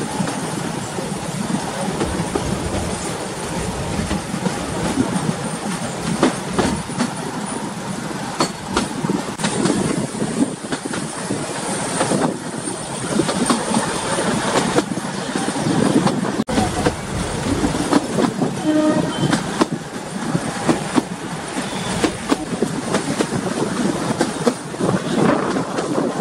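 Narrow-gauge passenger train heard from an open carriage window while running: wheels clattering over the rail joints with a steady rumble. A short horn sounds about two-thirds of the way through.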